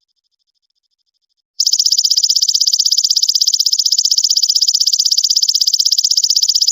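A shrill, very even, rapid buzzing trill from a masteran songbird-training track. It starts suddenly about a second and a half in, after a stretch with only a faint pulsing tone.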